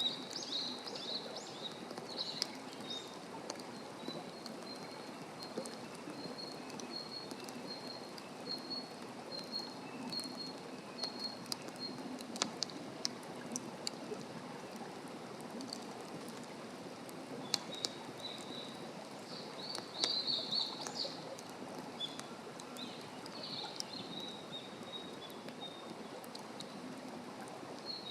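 Forest birds singing, one repeating short high notes about twice a second for several seconds, with a louder burst of calls about two-thirds of the way in. Underneath, a steady hiss and scattered sharp crackles from a wood campfire.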